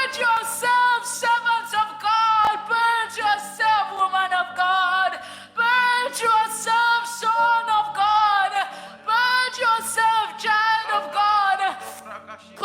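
A woman's voice singing in tongues: quick runs of short syllables on a pitched, chant-like line.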